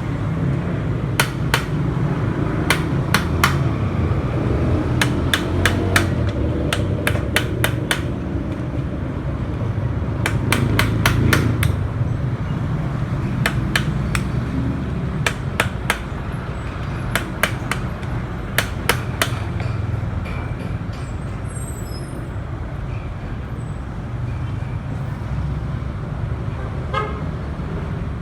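Hammer blows on metal in quick clusters of three to five strikes, knocking out an old ball-bearing bicycle bottom bracket, with the strikes thinning out after about twenty seconds. A steady traffic rumble runs underneath.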